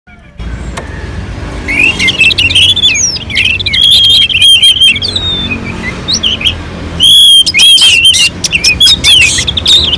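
Orange-headed thrush singing a loud, rapid, varied song of whistled phrases, trills and chirps with only brief pauses, over a faint low hum.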